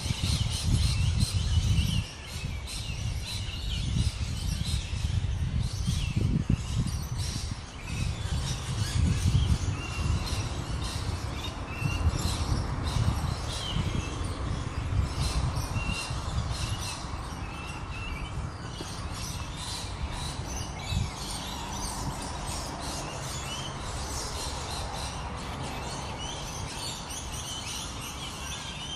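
Small birds chirping: many short, high chirps repeating throughout, over a low rumble that is strongest in the first half.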